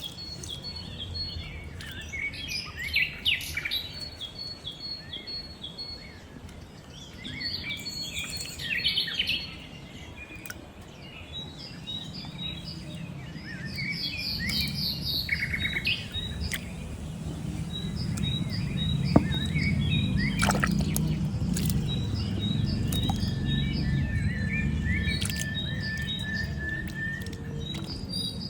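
Birds chirping and calling repeatedly in short, quick phrases, with a low rumbling noise underneath that grows stronger about halfway through.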